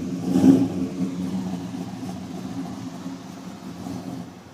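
2014 Chevy Silverado's engine idling steadily, with a brief bump about half a second in.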